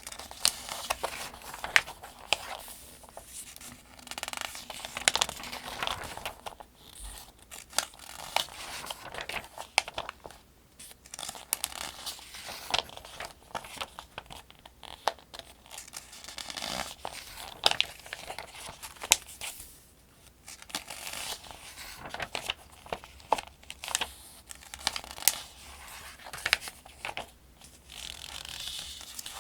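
Pages of a paperback almanac being turned one after another, each turn a crisp paper swish with small sharp snaps and crinkles.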